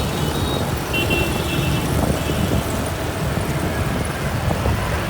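Riding on a motorbike in town traffic: a steady engine and road rumble. Two short high-pitched beeps come about one second and about two seconds in.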